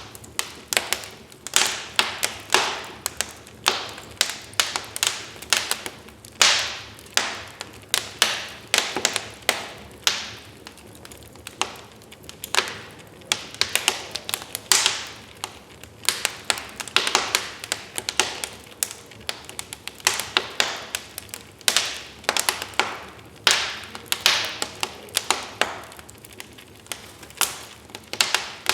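Wood fire crackling in a fireplace: a steady run of irregular sharp pops and snaps, some louder than others.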